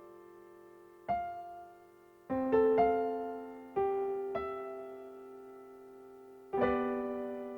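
Slow, sparse solo piano: single notes and chords struck now and then, about six times, each left to ring out and fade slowly.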